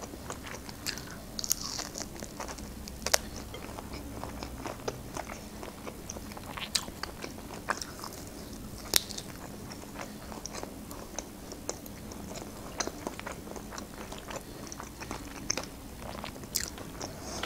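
Close-up eating sounds: a person biting grilled meat off a rib bone and chewing it, with scattered short, sharp clicks and smacks.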